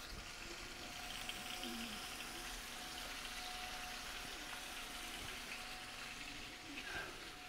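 Chicken thighs searing in a hot pan of butter and oil, sizzling steadily, with a faint steady hum underneath.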